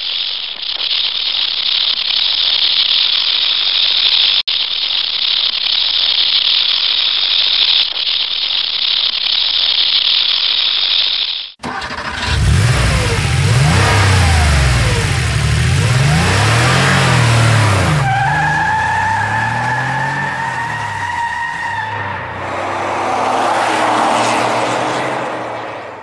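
A steady high hiss for about eleven seconds that cuts off abruptly, then a car engine revving up and down several times, followed by a steady high whine and noise that fades out near the end.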